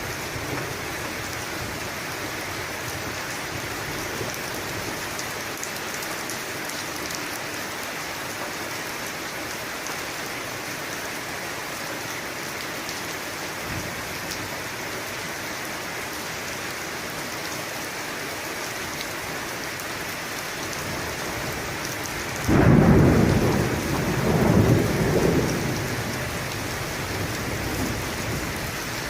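Steady rain falling, a full, even hiss. About three-quarters of the way through, a sudden thunderclap breaks in and rolls as a low rumble that swells twice before fading back under the rain.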